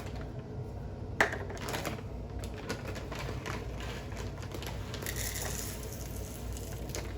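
Bird seed being poured into a steel can, many small seeds rattling and pattering against the metal, with a single sharp knock about a second in.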